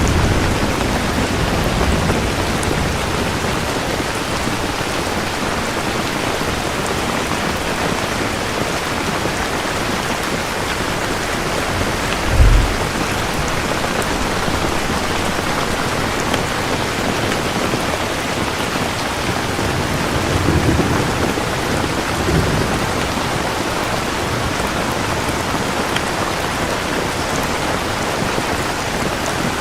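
Steady heavy rain with thunder: low rumbles roll in near the start and again about two-thirds of the way through, and a single short, sharp low boom comes about halfway.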